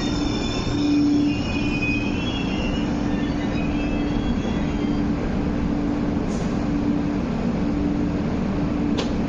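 Metro Cammell MLR electric train's wheels and brakes squealing as it slows to a stop at the platform; the squeal fades out about four seconds in. A low hum comes and goes under it, and a sharp click sounds near the end.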